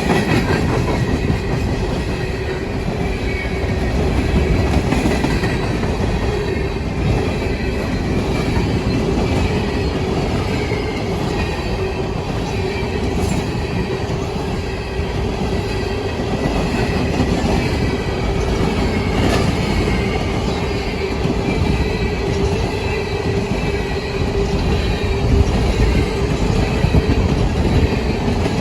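Empty coal train rolling past, steel wheels on the rails making a steady rumble. A constant whine sits underneath the whole time.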